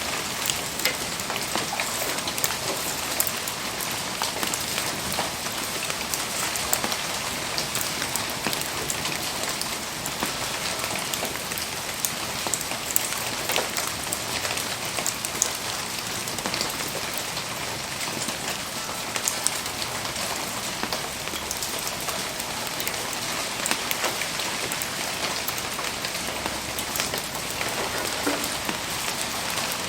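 Steady rain falling, an even hiss dotted with many sharp ticks of drops striking.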